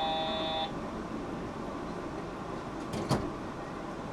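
Steady hum inside a Yurikamome automated transit train car. An electronic tone of several steady pitches cuts off about half a second in, and a single sharp knock comes about three seconds in.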